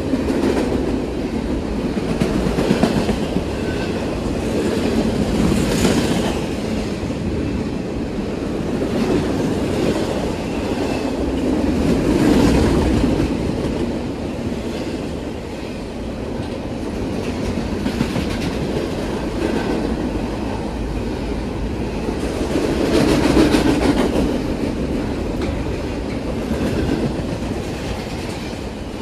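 BNSF double-stack intermodal freight train's container-laden well cars rolling past: a steady rumble and clatter of wheels on the rails that swells and eases every few seconds as the cars go by, with brief faint wheel squeals now and then.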